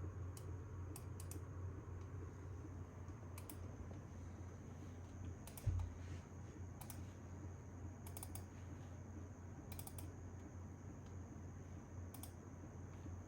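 Computer keyboard keys clicking now and then at an irregular pace, over a steady low hum. A single low thump about halfway through is the loudest sound.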